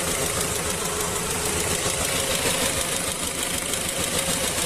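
GAZelle van engine idling with a knock, running unevenly; the knock seems to come from somewhere at the top of the engine, and its cause is not yet known. The electric cooling fans are running at the same time.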